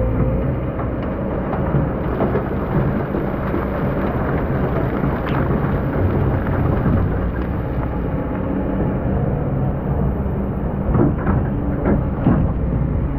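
Excavator's diesel engine running steadily under load while it digs sand, with the rough rush of sand and a few sharp knocks, mostly near the end.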